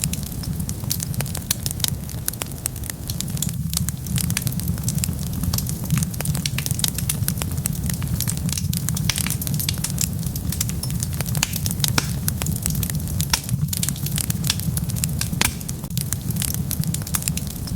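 Wood fire burning, with a steady low rumble of flames and many sharp crackles and pops from the burning wood.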